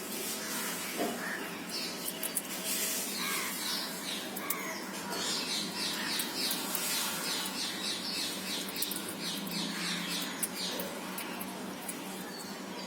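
Baby parrots squawking: a run of short, repeated rising calls at about three a second through the middle, with faint clicks.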